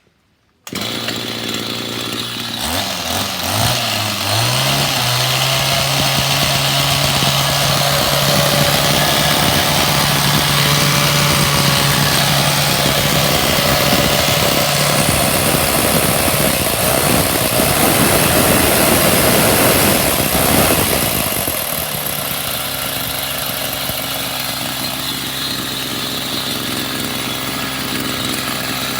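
Maruyama BHT600DR engine hedge trimmer running. It comes on suddenly under a second in and speeds up over a couple of seconds. It holds high revs until about three-quarters of the way through, then drops back to a slower, steady run.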